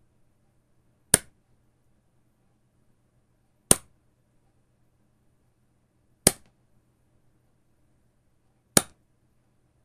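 Rubber band stretched and let go, snapping back with a sharp crack, four times at even intervals of about two and a half seconds.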